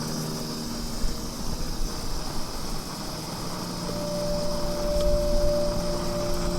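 Wind blowing steadily over the microphone, a rushing noise with a low rumble. A faint steady hum of a few held tones comes in about four seconds in.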